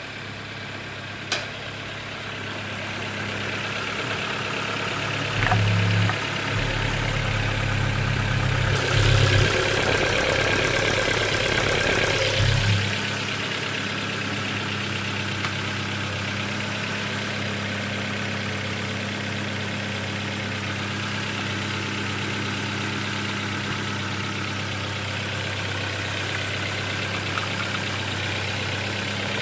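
Ford Focus 1.6 HWDA four-cylinder petrol engine running: it is revved up a few times in the first half, then settles back to a steady idle.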